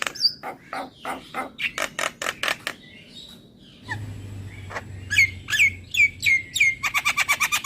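Javan myna (jalak kebo) calling: a fast run of harsh clicking notes, a short pause, then short downward-sliding whistles about three a second that speed up into a rapid rattling series near the end.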